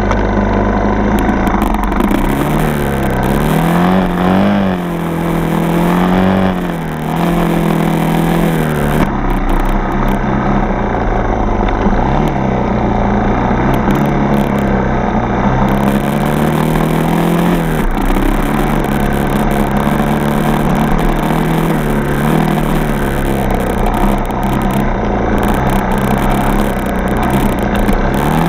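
Four-stroke single-cylinder dirt bike engine running while riding, its revs rising and falling with the throttle, with brief throttle-offs about four and a half and seven seconds in.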